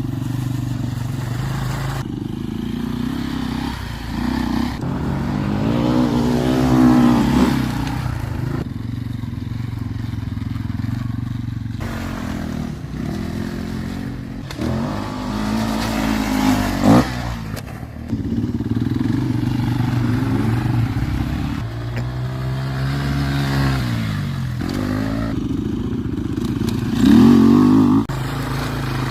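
Dirt bike engine running and revving up and back down several times, its pitch rising and falling with the throttle. There is a sharp loud peak about two-thirds of the way through.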